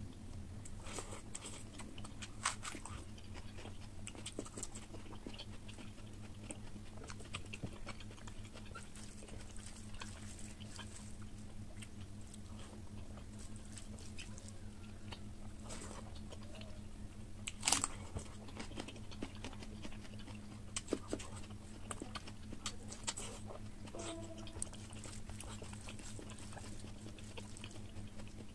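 Close-up eating sounds of a man eating oily mutton curry and rice by hand: chewing and biting with many small scattered clicks, and one sharper click a little past halfway, over a steady low hum.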